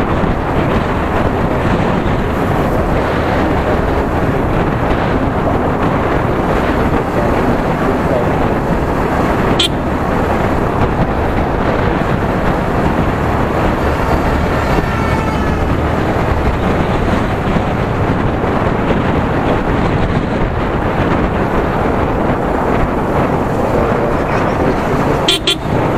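Steady, loud wind rush over the microphone of a Yamaha R15 V3 motorcycle riding at speed, with the bike's running mixed into it. A sharp click about ten seconds in and another near the end.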